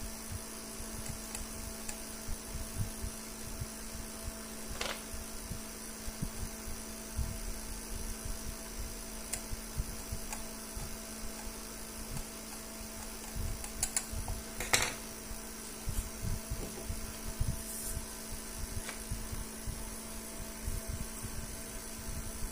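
Steady mechanical hum made of several steady tones, with soft low knocks throughout and a couple of sharp clicks about five and fifteen seconds in.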